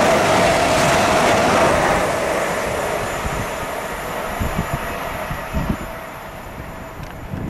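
A train passing through at speed on the West Coast Main Line, its loud rushing noise fading away after about two seconds, with a few low thumps as it dies down.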